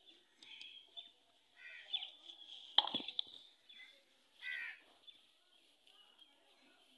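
A few short bird calls, crow-like caws, outdoors, with one sharp knock about three seconds in, the loudest sound.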